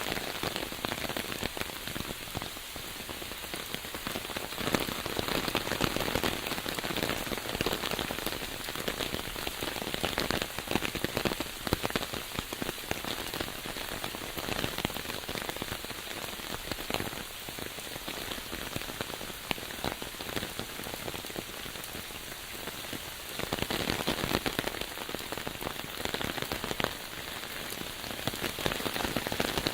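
Steady rain falling, with many small drop impacts, growing heavier for a few seconds about three-quarters of the way through.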